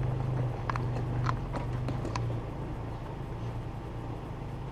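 Footsteps crunching on dry dirt and pine litter, a few sharp steps in the first two seconds that fade as the walker moves away, over the steady low hum of an idling engine.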